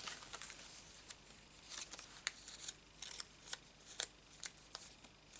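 Paper craft pieces being handled on a desk: scattered small ticks and light rustles, a few sharper ticks standing out.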